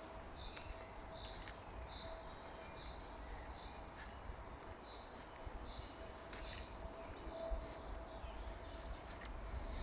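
A bird repeating a short, high call about twice a second, regular at first and more irregular after a few seconds. Beneath it run a faint steady hum and a low outdoor rumble.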